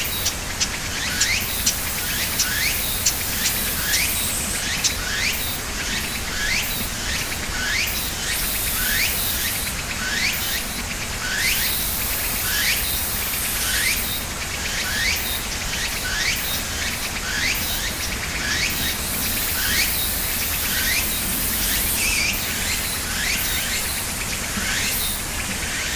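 A bird calling with short, sharp chirps, repeated one to two times a second, over a steady high hiss.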